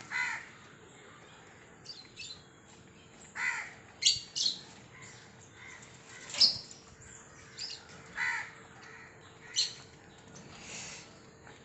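Birds giving short, harsh squawking calls, about nine separate calls at irregular intervals, the loudest about six and a half seconds in.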